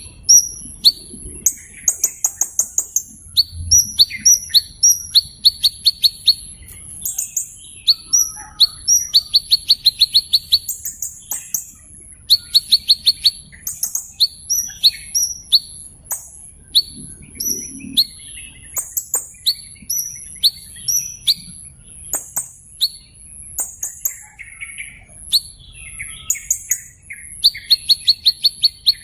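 Small bird's high, sharp chirps, given singly and in fast runs of repeated notes, over a thin steady high-pitched tone.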